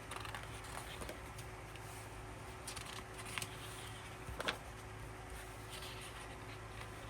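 Soft rustling and small clicks of an album's paper and plastic contents being handled, with two sharper taps about three and a half and four and a half seconds in.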